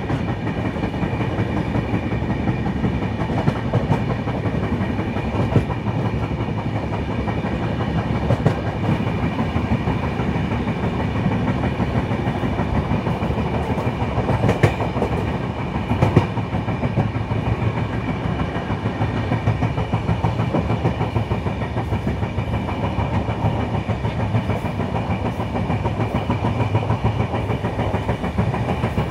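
Express passenger train running at speed: a steady rumble of coach wheels on the rails, with a few sharp clicks about halfway through.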